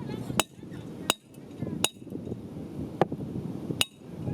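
Hammer blows, about five sharp strikes at uneven spacing, each with a short metallic ring, typical of nails being driven into the timber of a wooden boat.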